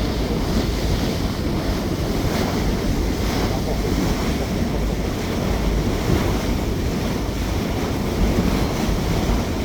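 Steady rush of wind and water from a cruise boat under way, with wind buffeting the microphone.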